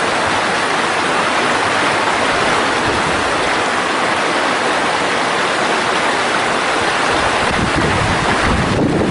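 Mountain stream water rushing over rocks in a steady, loud rush. A low rumble joins it from about three-quarters of the way in.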